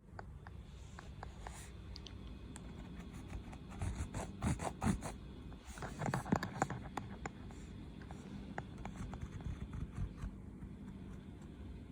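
Writing on paper: a pen tip scratching and rubbing, with a busier stretch of louder scrapes and clicks in the middle.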